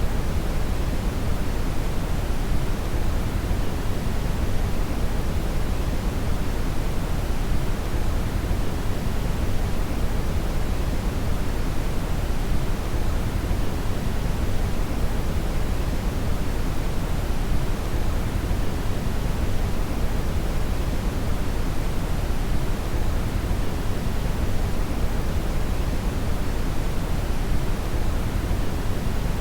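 Steady brown noise (red noise): an even, unchanging deep rumbling hiss, strongest in the low end and falling away toward the highs.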